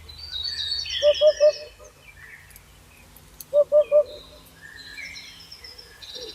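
Birdsong: several small birds chirping and trilling at high pitch, over which a low three-note hooting call comes twice, about a second in and again near the middle. The hoots are the loudest sound.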